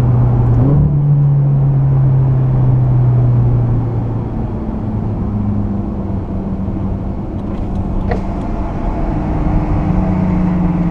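Ferrari 458's V8 engine heard from inside the cabin, running hard with a steady note, then easing off and quieter about four seconds in before picking up again near the end.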